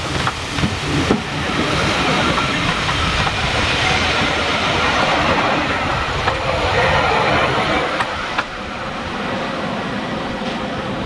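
Steam-hauled train on the move: steam hissing over the clatter of wheels on the rails, with a few sharp clicks. It eases off and grows quieter about eight seconds in.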